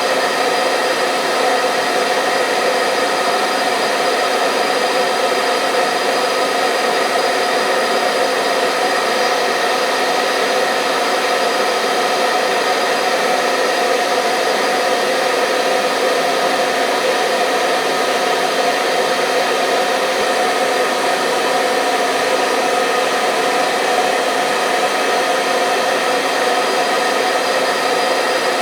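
Hair dryer running continuously at a constant speed: a steady, loud whooshing blow with a steady motor hum in it, unchanging throughout.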